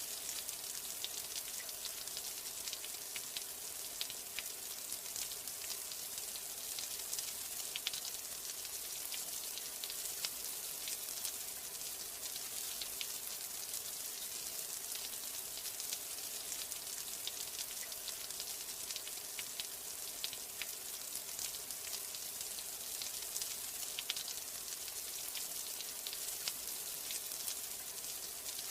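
Steady rain: an even hiss dotted with many small, close drop taps.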